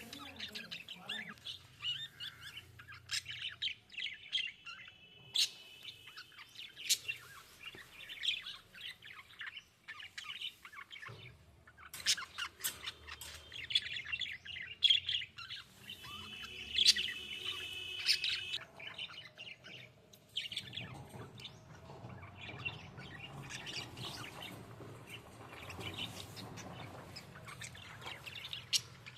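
Budgerigars chirping and chattering: a busy stream of quick chirps and clicks, with a few short held whistled notes.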